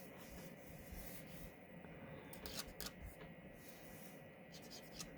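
Faint scratching of an alcohol-marker tip rubbing over cardstock while colouring, in a few short strokes.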